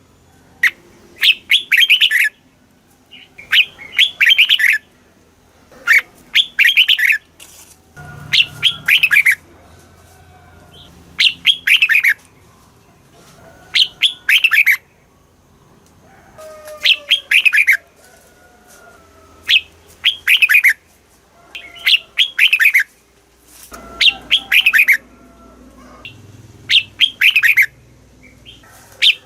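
Red-whiskered bulbul singing: short, loud phrases of quick whistled notes that drop in pitch, repeated about every two seconds. Fainter calls sound between the phrases.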